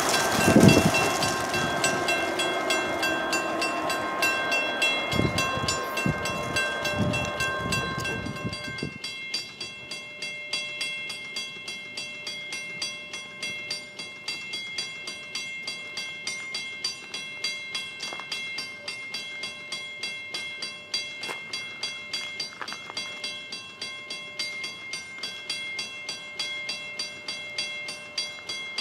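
A train running on past and fading away, its rumble dropping off about nine seconds in. A railroad crossing bell dings in an even, rapid rhythm throughout.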